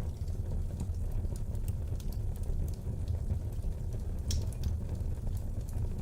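Wood fire burning in a fireplace: scattered crackles and pops over a steady low rumble, with one louder snap about four seconds in.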